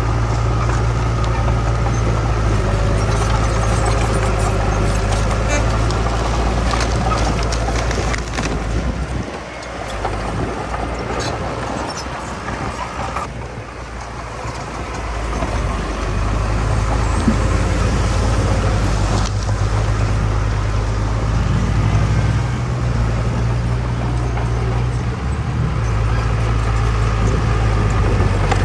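Heavy diesel earthmoving machinery running with a steady low engine drone. The engine eases off about nine seconds in and builds back up about sixteen seconds in, with scattered clanks.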